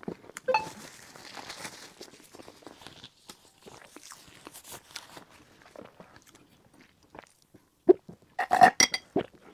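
Close-up chewing of a soft roll cake, with moist mouth sounds. Near the end come a few loud sips of tea through a metal straw.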